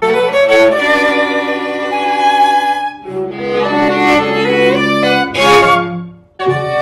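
String quartet playing sustained bowed chords in a new composition at a first run-through, violin on top over low cello notes. The chord changes about halfway through, and the playing breaks off briefly near the end before carrying on.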